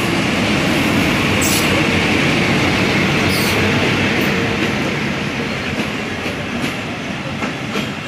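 Diesel-hauled passenger train running past close by: the locomotive's engine and wheel rumble is loudest over the first few seconds, then the passing coaches' wheels click over the rail joints as the sound eases off.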